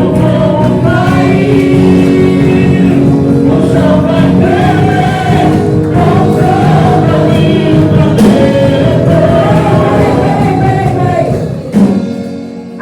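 Congregational gospel worship song: a choir of voices singing a slow melody over a sustained band accompaniment, which dies away near the end.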